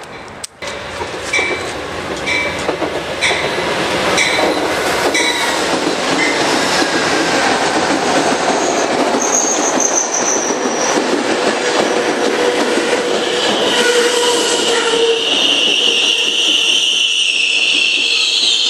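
Passenger train rolling past, its wheels clicking over rail joints about once a second, growing louder. Through the second half the wheels and brakes squeal in shifting high tones.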